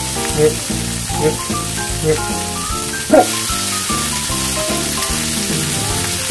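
Mackerel-and-tofu patties sizzling in olive oil in a frying pan, the sizzle growing louder about halfway through as another patty is laid into the hot oil. Background music plays over it.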